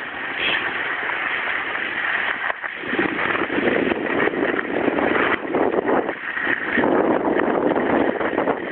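Skis scraping and hissing over snow during a run, with wind buffeting the microphone. The scraping comes in stronger surges from about three seconds in.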